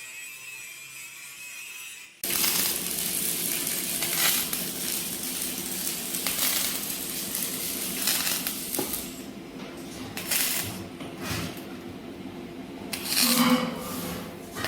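Steel stove parts clanking and clinking against each other, several sharp metallic knocks over a steady machine hum, starting abruptly about two seconds in.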